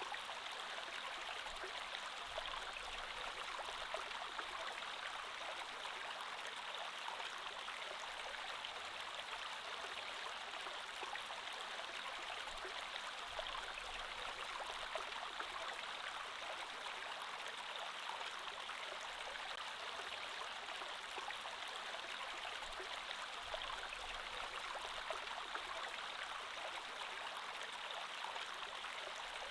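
Creek water flowing steadily over its bed: an even wash of running water, flecked with small splashes.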